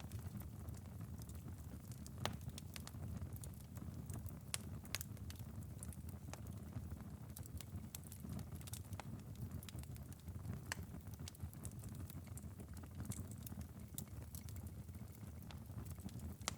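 Glowing ember bed of a wood fire in a fireplace, crackling with scattered small pops and ticks over a low steady rumble.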